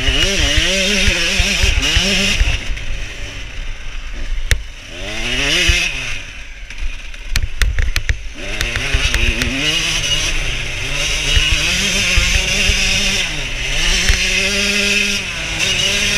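Yamaha YZ125 single-cylinder two-stroke engine revving hard under racing load, its pitch climbing and falling with throttle and gear changes. It drops off for a few seconds about halfway through, with a few sharp knocks, then pulls hard again.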